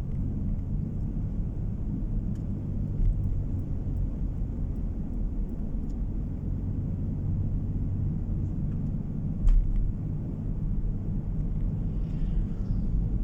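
Steady low road and engine rumble of a moving car heard from inside the cabin, with a single brief knock about nine and a half seconds in.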